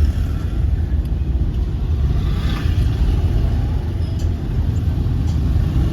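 Steady low rumble of motor vehicle traffic on a busy market street.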